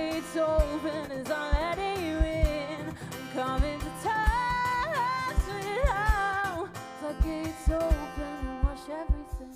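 Live band playing the close of a song: a wavering sung melody with vibrato over guitar and steady low drum beats, dying away at the very end.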